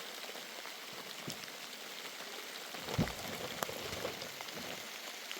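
Steady rain falling, with scattered individual drops ticking close by and a single dull knock about three seconds in.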